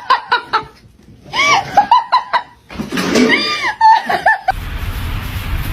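A person laughing in short, rhythmic bursts. About four and a half seconds in it cuts off abruptly to a steady rushing noise.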